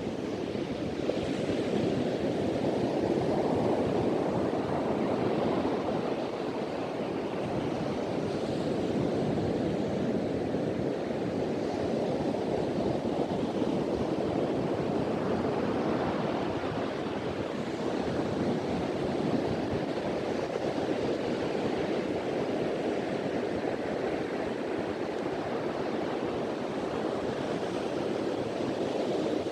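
Ocean surf washing onto a beach, a steady rushing with slow swells as waves break, with wind.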